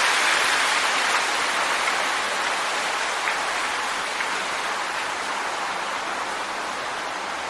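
Strong wind rushing in a hissing gust that slowly dies down, with a few faint ticks.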